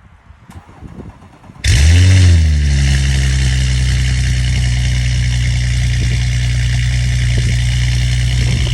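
Audi S4 B9's turbocharged V6 cold-starting: it fires about two seconds in, flares up in revs for a moment, then settles into a steady fast cold idle through the exhaust.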